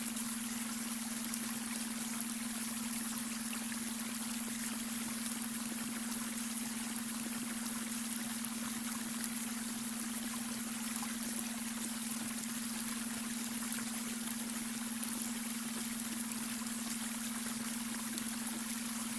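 Babbling brook, water running and trickling evenly over stones, with a steady low tone held underneath: the added beta-wave brainwave tone.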